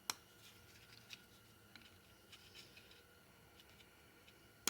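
Faint clicks and light ticks from small plastic electrical connectors and tools being handled on a 4L60E transmission's solenoids, with a sharper click just after the start and another at the end.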